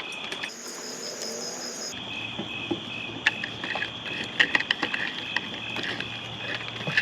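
A steady night insect chorus of high, continuous chirping. About half a second in, a higher-pitched trill briefly takes over. Scattered light clicks and taps come through later on.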